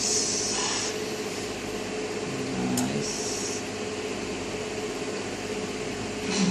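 Steady hum and hiss of room noise, like a fan or air conditioner running, with a couple of brief clicks.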